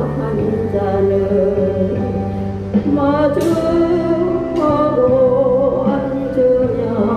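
A voice singing over karaoke backing music, holding long notes on the melody.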